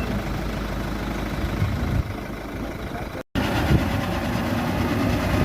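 Diesel engine of earthmoving machinery running steadily, with a sudden break of silence about three seconds in where the recording cuts.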